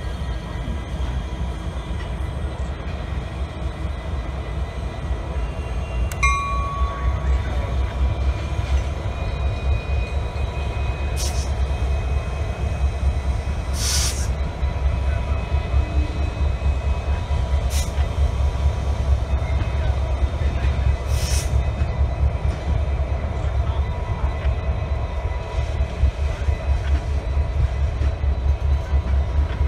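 A freight train running by with a steady deep rumble, broken by a few short bursts of higher-pitched noise.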